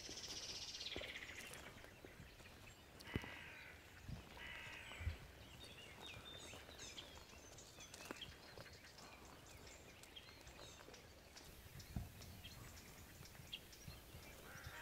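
Birds calling: a harsh, falling call at the start and two more harsh, caw-like calls a few seconds in, then thin high chirps, with a few faint knocks among them.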